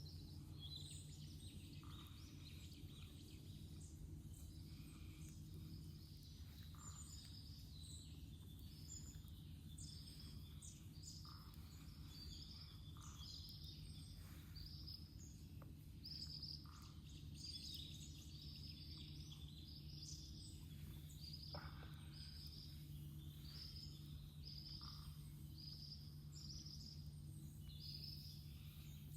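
Faint outdoor ambience: a steady series of short high chirps, roughly one a second, over a low steady hum.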